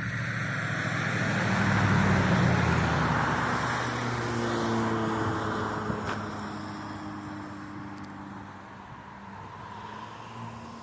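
A car passing on the road. Its tyre hiss and engine swell to a peak about two seconds in, then fade away.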